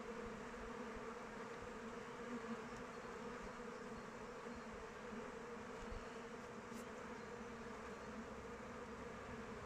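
Honeybees flying around their hive: a dense, steady buzzing hum from many bees at once, with a low drone that never breaks.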